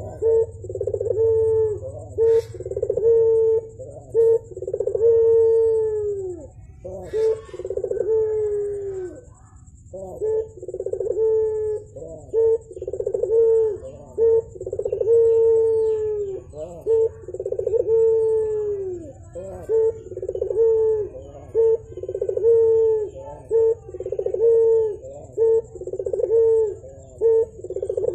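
Puter dove cooing over and over in steady, rhythmic phrases of rounded, falling notes, pausing briefly about a third of the way through before carrying on.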